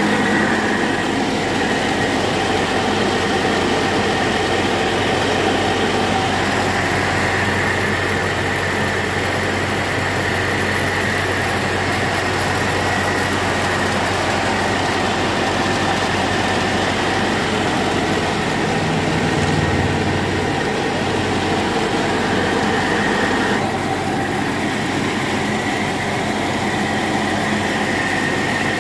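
Tractor engine running a mini rice mill, the engine and mill machinery going steadily together with a continuous hum and a high, steady whine.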